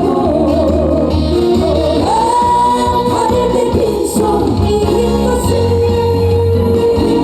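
Live Korean trot song: a woman singing with vibrato over a band backing with a steady bass line, holding one long high note about two seconds in and another long note near the end.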